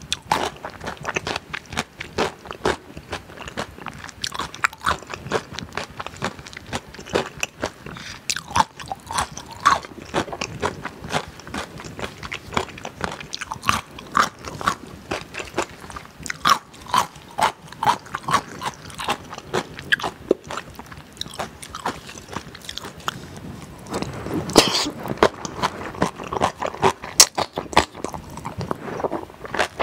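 Close-miked eating sounds of a person chewing spicy fire noodles mixed with curry: a steady run of many short, wet clicks and smacks. About 24 seconds in there is a louder, longer mouth noise.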